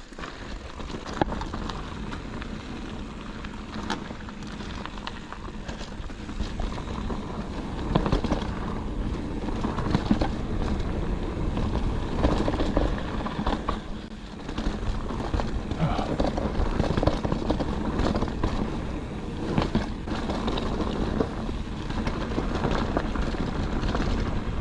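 Mountain bike riding fast down a dirt singletrack: wind rushing over the action camera's microphone with tyre noise and frequent rattles and knocks from the bike on rough ground, growing louder over the first eight seconds or so.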